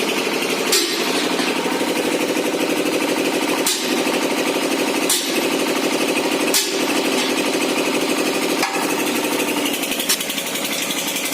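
Powertrac 430 tractor's diesel engine running steadily with a fast, even chatter, driving a fan through its PTO pulley. A sharp click cuts through about every one to three seconds.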